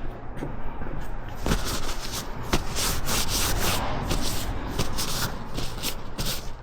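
Hand work at the bench: a run of short, irregular rubbing and scraping strokes that thicken from about a second and a half in.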